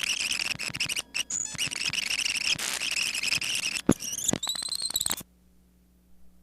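High, steady chirping of crickets picked up through the microphone, mixed with scattered clicks. About five seconds in it cuts off abruptly, leaving only a faint electrical hum.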